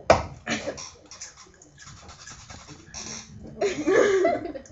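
A sharp knock, then scratchy rustling and crackling close to the microphone in short patches, with a brief voice sound, like a laugh or murmur, about four seconds in.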